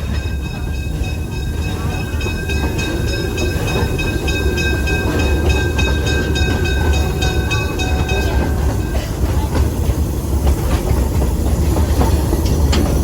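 Narrow-gauge steam train running, heard from aboard: a steady heavy rumble with rhythmic clatter of wheels over the rails. A steady high ringing tone stops about two-thirds of the way through.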